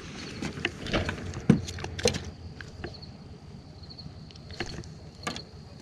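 A few scattered sharp knocks and clicks, most likely from handling fishing gear on a boat dock, over a low outdoor rumble, with a faint high steady chirring in the background.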